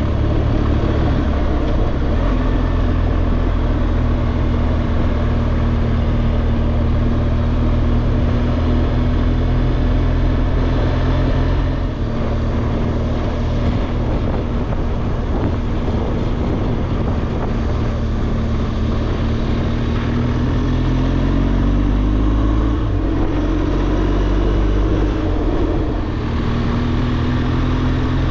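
BMW R1200GSA boxer-twin motorcycle engine running under way, heard with steady wind rush. The engine pitch shifts about twenty seconds in.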